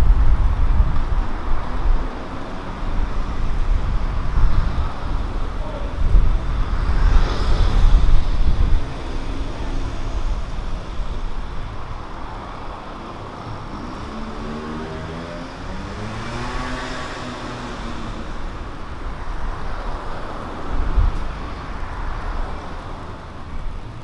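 City street traffic: cars passing with a heavy low engine rumble in the first several seconds. Around the middle, one vehicle passes by with its engine pitch rising and then falling.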